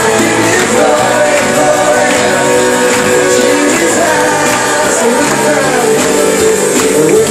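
Live church worship band playing a song with guitar, with voices singing drawn-out notes over it. Recorded on a phone, in a large room.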